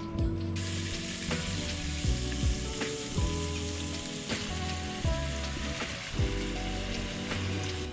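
Food sizzling in a hot frying pan, an even hiss that starts abruptly about half a second in and continues, over background music.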